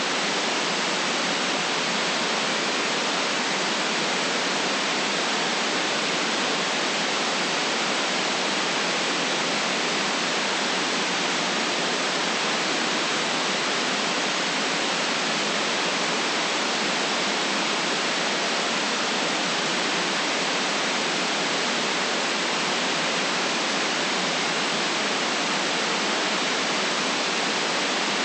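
Steady generated white noise: an even, unchanging hiss with no deep bass and no highest treble.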